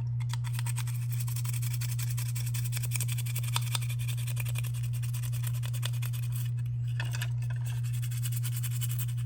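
Stiff toothbrush scrubbing paint off a small diecast metal model part, a dense run of fine scratchy strokes, over a steady low hum.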